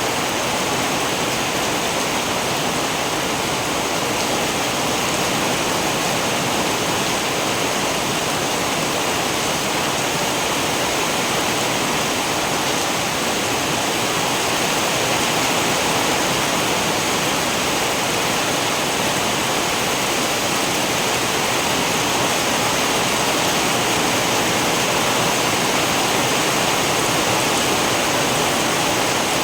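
Heavy, steady rain: a dense, even hiss with no single drops or thunder standing out.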